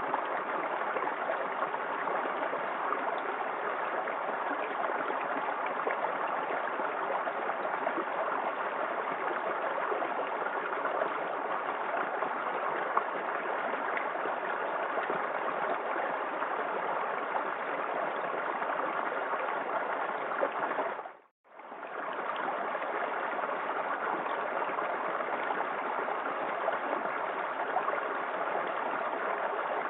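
Small waterfall in a forest creek: a steady rush of falling water. It drops out to silence for a moment about two-thirds of the way through.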